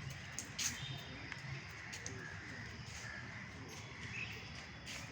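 Scattered short bird calls over a steady outdoor background, with a sharp click about half a second in.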